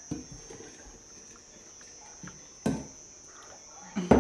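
A few sharp knocks of cookware, a small click at the start and two louder ones about two and a half and four seconds in, the second the loudest, while the boiled milk is poured into the munguzá pot. A faint steady high whine runs underneath.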